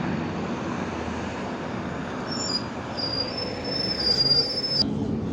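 IVECO Crossway 13M LE city bus running, heard from inside, with a thin high-pitched squeal that starts about two seconds in and cuts off suddenly near the end.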